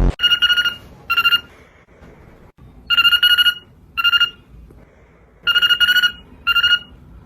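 A telephone-style ring: a warbling trill in double bursts, a longer ring then a shorter one, repeating about every two and a half seconds.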